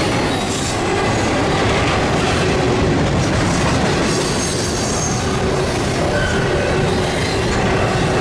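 Double-stack intermodal container cars rolling past at close range: a steady rumble and rattle of steel wheels on the rails, with a few brief, faint wheel squeals.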